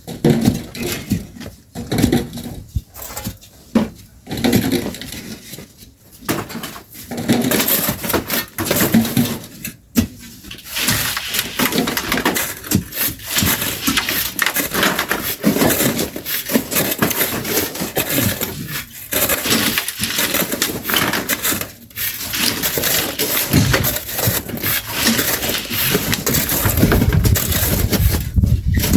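Shovels scraping into sand and gravel and the loads thrown, several workers at once. The strokes come spaced apart at first and pack together into near-continuous crunching about a third of the way in.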